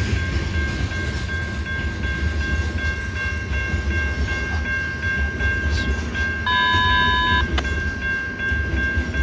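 Slow-moving loaded ore train rolling past: a steady low rumble of the cars, with a constant high-pitched squeal over it. About six and a half seconds in, a brief extra tone sounds for about a second.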